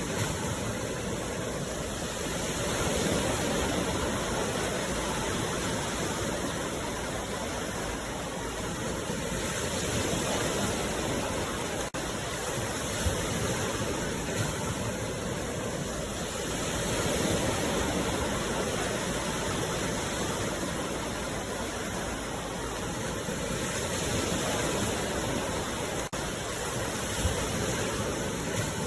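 Sea waves washing onto the shore: a steady rush of surf that swells and falls back about every seven seconds.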